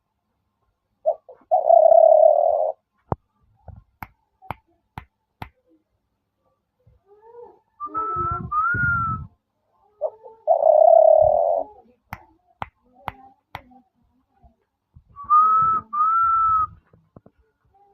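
Dove-style cooing calls in a repeating phrase: a long low coo of about a second, then a pair of short, higher whistled notes, the phrase heard twice. Scattered sharp clicks fall between the calls.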